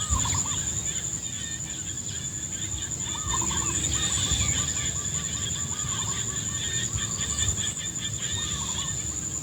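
Rice-field ambience: a steady high-pitched whine, with bursts of rapid warbling animal calls now and then and a low rumble underneath.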